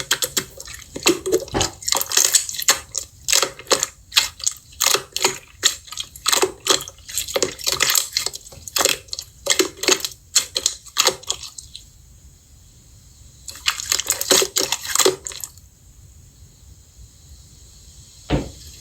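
Slime being squeezed and pressed by hand, giving rapid wet crackling and popping clicks. The crackling stops about twelve seconds in, returns briefly a couple of seconds later, and ends with a single pop.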